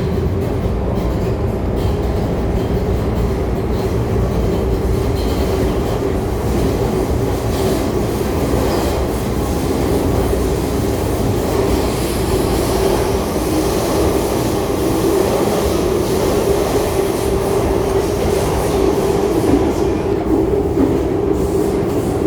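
Hong Kong MTR M-Train electric multiple unit running at steady speed: a continuous rumble of wheels on rail with a steady hum, and no let-up or stop.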